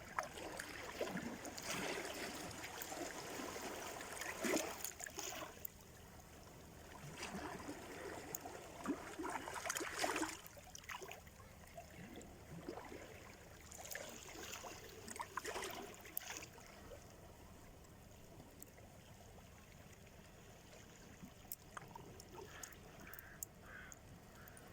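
Small waves of sea surf washing onto the shore and running back with a fizzing, crackling hiss. They come in three swells in the first two-thirds, then a quieter stretch of lapping water.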